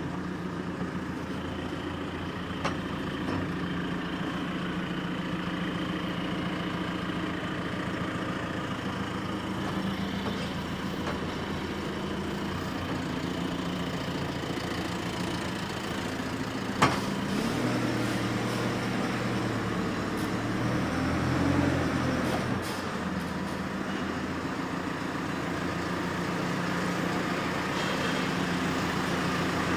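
Heavy diesel truck engine running steadily, its note shifting a little in the middle, with a sharp click about three seconds in and a louder one around seventeen seconds.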